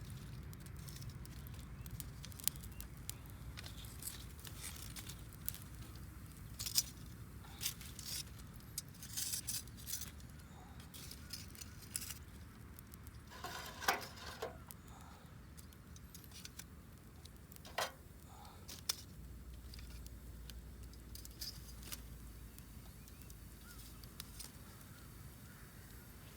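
Wood fire crackling: sharp, irregular pops and snaps, a few at a time, over a faint steady low background.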